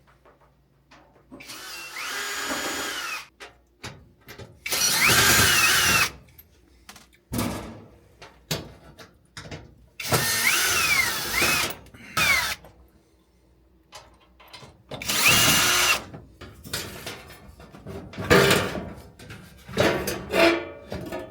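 Cordless drill/driver run in about half a dozen short bursts of one to two seconds, its motor pitch rising and falling within each burst, with clicks and knocks in between.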